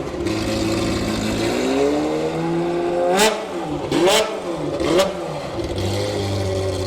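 Ferrari 355 Challenge's 3.5-litre V8 being revved while standing. The revs climb, then it is blipped sharply three times about a second apart before dropping back to a steady idle near the end.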